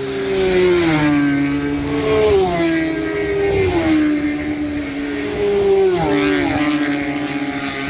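Superbike racing motorcycle engine running hard at high revs, its pitch jumping up and down in steps several times.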